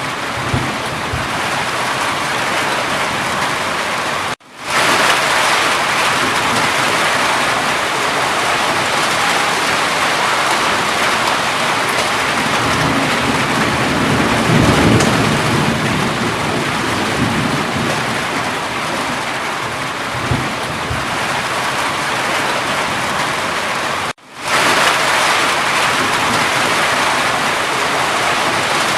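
Steady heavy rain falling, with a low rumble of thunder swelling and fading about halfway through. The sound cuts out for a split second twice, about 4 seconds in and again near the end.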